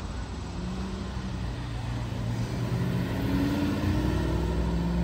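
Car engine running at low revs as a car pulls away, getting gradually louder with its pitch rising slightly about halfway through.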